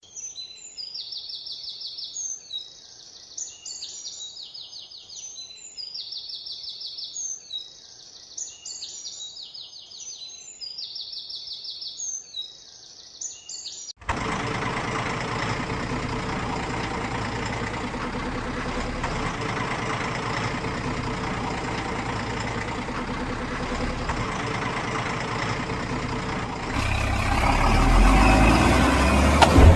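Bird chirping, short trilled calls repeating about every two seconds. About halfway through a truck engine cuts in suddenly and runs steadily, growing louder near the end.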